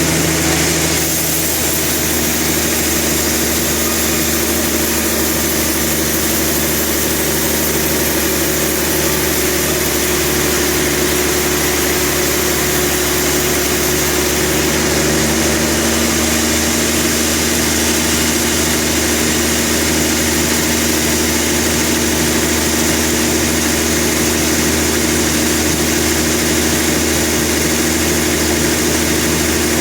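Sawmill machinery's engine running steadily with a constant hum, its pitch shifting slightly about a second in and again about halfway through.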